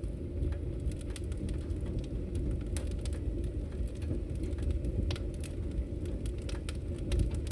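Fireplace fire crackling: a steady low rumble of burning with irregular sharp pops and snaps scattered throughout.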